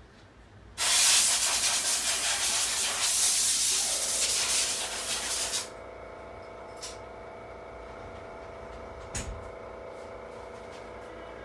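Desktop PC cooling fans blowing at full speed with a loud, even hiss, as at power-on. After about five seconds they drop to a steady, quieter hum with a faint whine, and there is a single click near the end.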